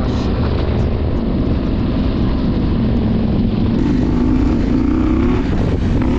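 Adventure motorcycle's parallel-twin engine running under way, its pitch wavering and rising slightly about four to five seconds in, over a steady rushing noise.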